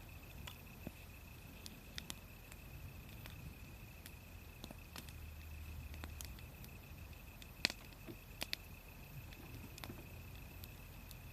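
Wood fire crackling: sparse, irregular sharp pops, with a couple of louder ones a little past the middle, over a steady faint high-pitched tone.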